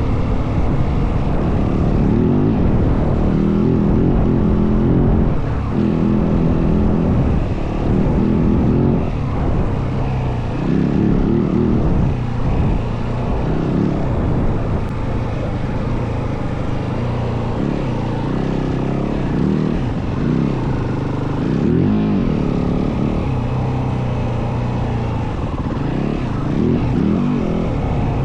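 Yamaha WR450F single-cylinder four-stroke enduro engine running hard while riding, its revs repeatedly rising and falling.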